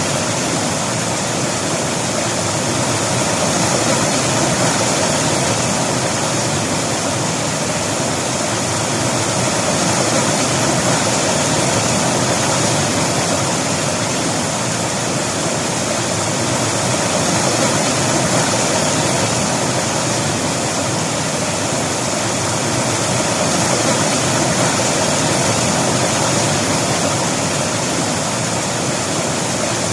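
River water flowing over rocks, a steady, full rushing that swells and eases gently.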